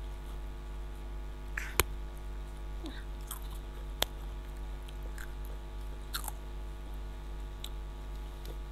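Crunchy snack chips being bitten and chewed, with two sharp clicks about two and four seconds in, over a steady low electrical hum.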